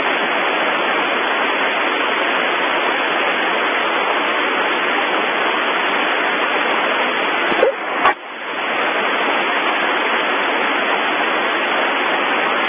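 Steady hiss of radio static on an open air traffic control frequency, broken by a short click and dropout about two-thirds in. No reply comes from Ukraine International 752 between the controller's calls.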